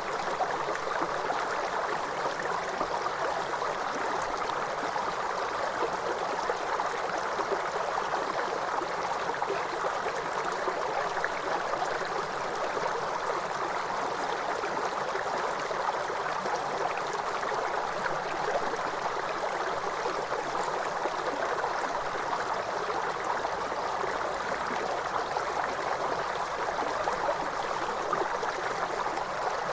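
Waterfall: a steady, unbroken rush of falling water, mostly in the middle range, without tones or breaks.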